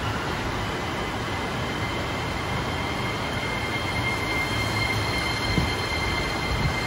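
Tokaido Line electric commuter train pulling in along the platform and slowing, with the rumble and rush of the passing cars and a steady high squeal of several tones as it brakes.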